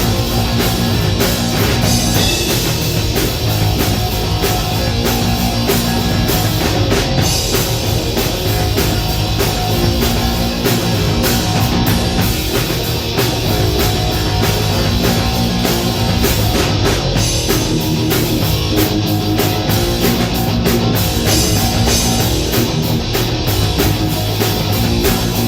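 Rock band playing an instrumental passage on electric guitar and drum kit, with no vocals.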